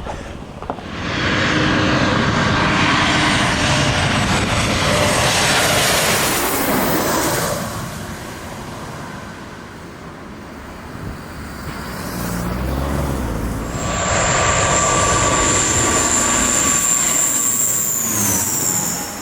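Jet airliner engines running loud in two spells, each a dense rushing noise. The second spell carries a high, steady engine whine that drops in pitch near the end.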